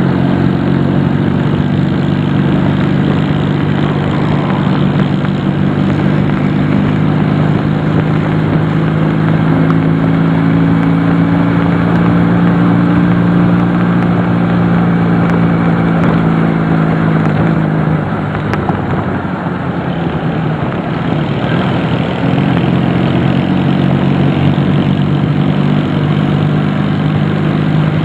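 Honda CD175 motorcycle's twin-cylinder engine running under way, a steady engine note over a constant rushing noise. About two-thirds of the way through, the engine note falls away for a few seconds, then comes back.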